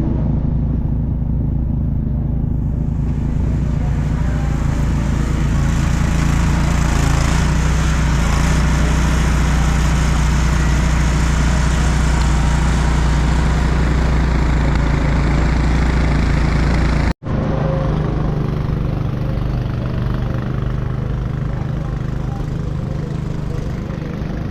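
City street traffic noise with a steady low engine hum from motor vehicles. The sound breaks off briefly about two-thirds of the way through, then carries on much the same.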